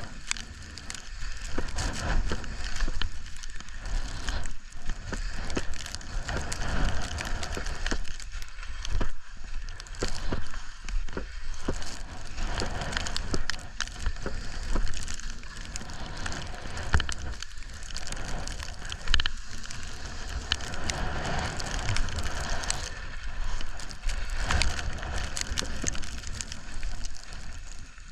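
Skis sliding and scraping over snow, with wind buffeting the microphone. The sound rises and falls unevenly throughout.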